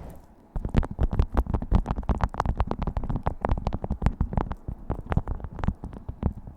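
Beeswax food wrap being crinkled and handled: a quick, irregular run of crisp crackles that starts about half a second in.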